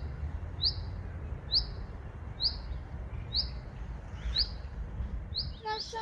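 A small bird calling: a short, high chirp repeated about once a second, over a low steady rumble.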